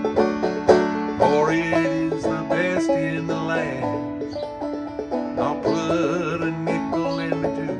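Five-string banjo played clawhammer style in open A tuning, a steady, driving run of plucked notes and brushed strums of an old-time country tune.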